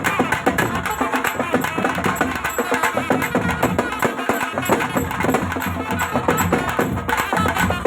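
Tamil folk music for a kummi dance: a melody with bending pitch over a dense, fast, steady beat of sharp strikes.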